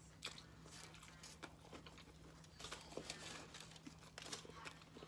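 Faint chewing of a bite of steak sandwich: scattered small mouth clicks and smacks, over a steady low hum.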